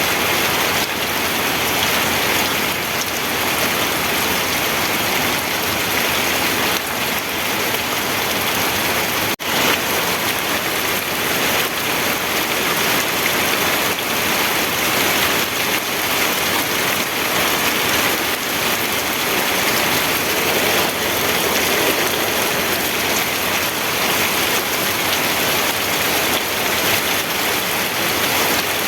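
Steady rainfall, an even dense hiss of drops, with a momentary dropout about nine seconds in.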